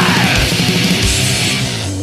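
Crust punk band playing: distorted guitars, bass and fast pounding drums. About a second and a half in, the drums stop and the final chord of the song rings on.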